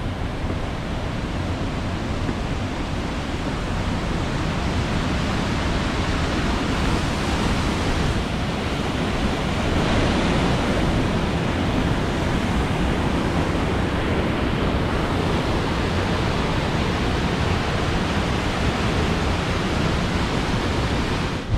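A waterfall's falling water rushing steadily.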